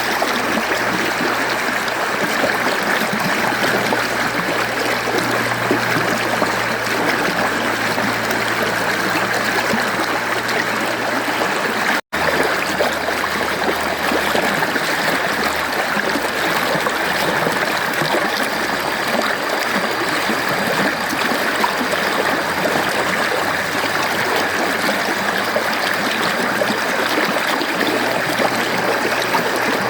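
Mountain stream flowing, a steady rushing and trickling of water, broken by a split-second silent gap about twelve seconds in.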